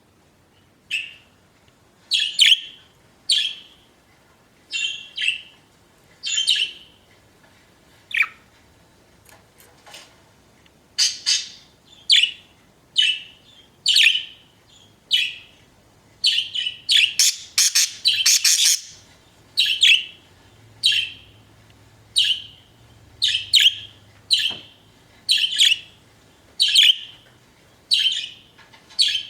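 Pet budgerigars chirping: short, high chirps repeated about once or twice a second, with a denser flurry of chirping just past the middle.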